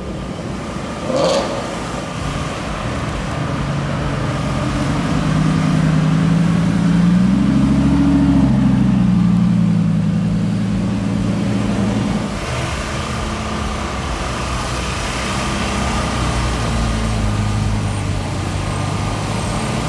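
Supercar engine and exhaust at low revs as the car moves off. The engine note climbs through the middle and drops back, then runs lower and steady.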